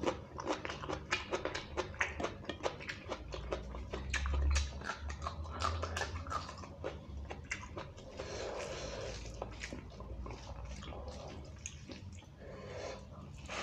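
Close-miked eating of beef curry and rice by hand: wet chewing and smacking with many quick mouth clicks, turning to a steadier soft squishing a little past halfway.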